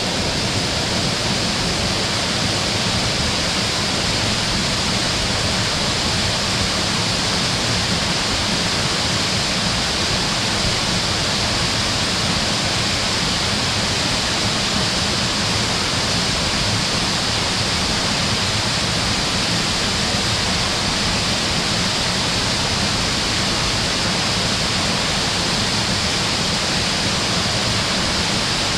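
A waterfall's steady, unbroken rush of falling water, even throughout, its hiss strongest in the upper range.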